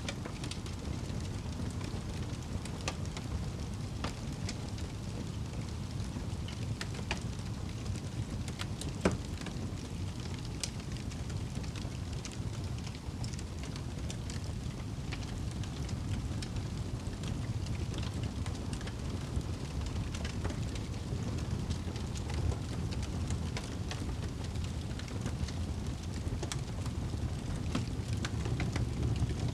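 Wood fire burning in a fireplace: a steady low rumble of flame, with scattered sharp crackles and pops. The loudest pop comes about nine seconds in.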